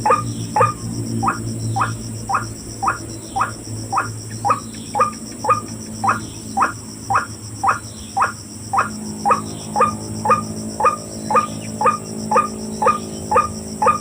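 White-breasted waterhen (ruak-ruak) call: a short, harsh note repeated over and over at a steady pace of about two a second, over a steady low hum.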